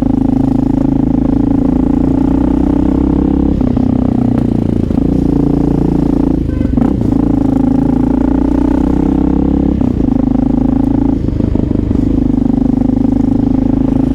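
Honda XR650L's single-cylinder four-stroke engine running under way, steady and loud, with its pitch dropping or breaking briefly about three times, at around 4, 7 and 10–11 seconds, as the throttle is eased or gears are changed.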